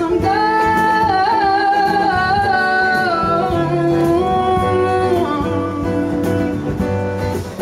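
A singer holds one long note on the word "I'm", sliding and stepping between pitches, over strummed acoustic guitar.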